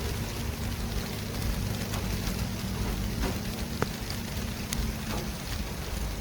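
City traffic ambience: a steady low rumble of engines with an even hiss of tyres on the road, and a few faint ticks.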